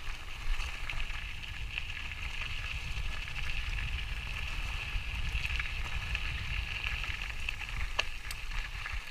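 Wind buffeting the microphone as a steady low rumble, under a constant high hiss, with a few sharp clicks about eight seconds in.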